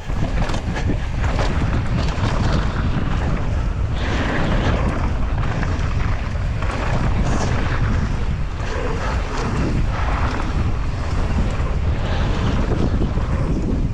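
Wind rushing over the microphone of a camera riding along on a fast mountain bike descent, with the rough rattle and crunch of the bike's tyres over the trail.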